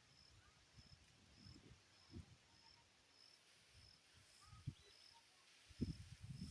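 Near silence, with an insect such as a cricket chirping evenly at a high pitch, about three chirps every two seconds. Wind buffets the microphone in low, irregular thumps, the loudest near the end.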